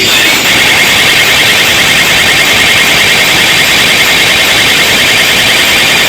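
Loud, distorted alarm-like siren effect from a DJ sound system: a fast, evenly repeating warble of short chirps, several a second.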